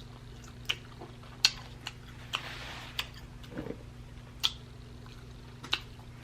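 Close-miked mukbang eating sounds: sharp wet mouth clicks and smacks roughly once a second while chewing, a short slurp about two and a half seconds in, and a brief closed-mouth hum a second later.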